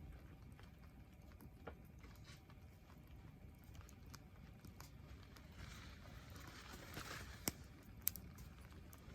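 Faint campfire crackling: scattered small clicks over a low rumble, with two sharper pops about half a second apart near the end.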